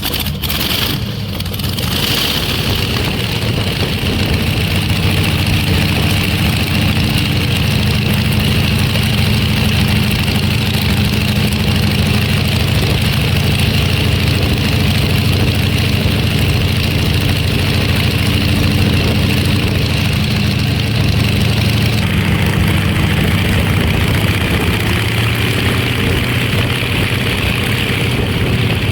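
A helicopter's piston engine catching as it is started, then running steadily; its tone shifts slightly after about twenty seconds.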